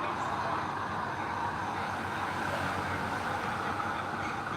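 Steady machine noise with a low rumble, unchanging throughout, of the kind made by heavy engine-driven equipment running.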